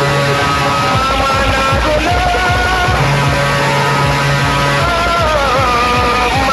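Loud music from a large sound system: a melody that bends up and down over held bass notes.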